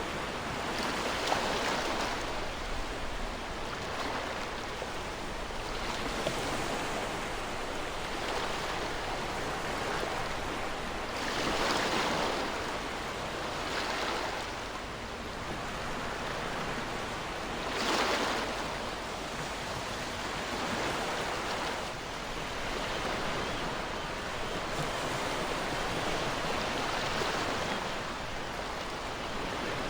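Ocean surf: waves breaking and washing up the shore in a continuous rush, swelling and fading every few seconds, with two louder surges around the middle.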